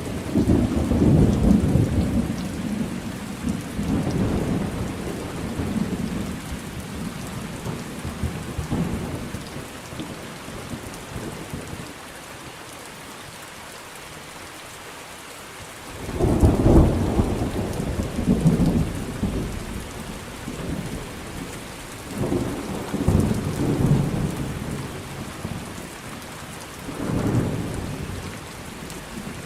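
Thunderstorm: steady rain with rolling thunder. A long rumble fades away over the first ten seconds or so, leaving the rain alone for a few seconds. A loud new peal breaks about sixteen seconds in, followed by further rumbles.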